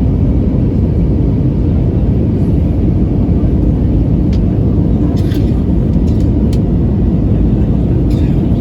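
Steady low rumble of an Airbus A320's engines and airflow heard from inside the passenger cabin.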